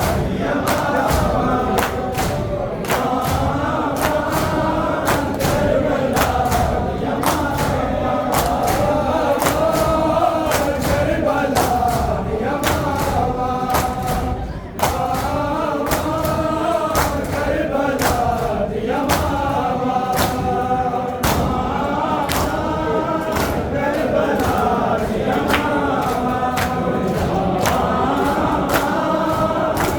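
A group of men chanting a Muharram nauha in unison, with regular sharp slaps of hand-on-chest matam keeping time. The chant breaks briefly about halfway.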